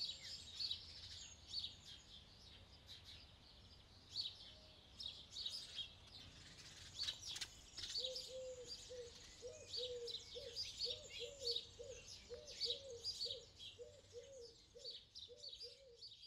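Birds singing: many high chirps and trills, joined about halfway through by a lower short call repeated about twice a second.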